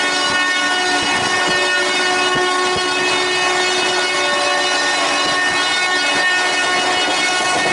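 Express train hauled by a WAP-4 electric locomotive running at speed, its horn sounding as one long steady blast over the noise of the wheels on the rails, with scattered low knocks.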